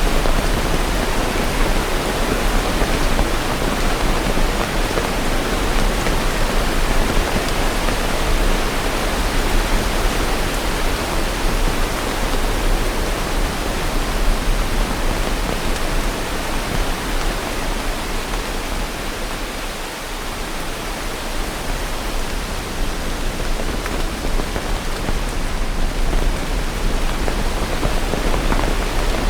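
Steady rain falling, an even rushing hiss with no separate drops or thunder standing out; it eases slightly about two-thirds of the way through.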